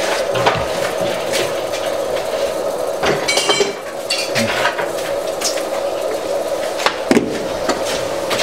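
Water heater draining under pressure, the water flowing through the drain valve and garden hose with a steady tone, over scattered metallic clinks and knocks.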